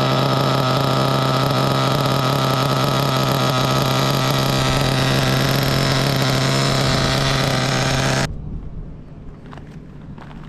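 Small single-cylinder nitro RC engine (SH PT21) in a Kyosho buggy running at a steady speed during break-in, a loud, even buzz that holds one pitch. It stops abruptly about eight seconds in, leaving faint clicks and handling noises.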